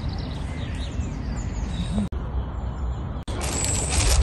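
Small birds chirping over a steady low outdoor rumble; about three seconds in the sound cuts abruptly to a louder, even hiss.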